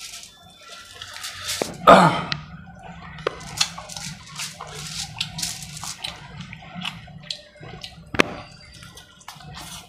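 Close-up wet chewing and lip-smacking of someone eating chicken curry by hand: many short crisp smacks and clicks, with one loud wet sound that slides down in pitch about two seconds in and a sharp click just after eight seconds.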